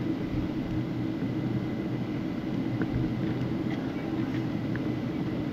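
Steady low rumble and hum of a moving vehicle heard from inside, with a faint steady high whine over it.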